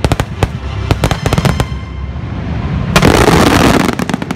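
Aerial fireworks shells bursting in quick succession: a string of sharp bangs over the first second and a half, then, about three seconds in, a second of dense crackling, the loudest part.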